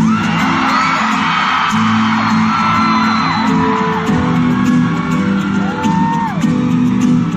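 Live band playing the opening of a song while the audience screams and cheers over it.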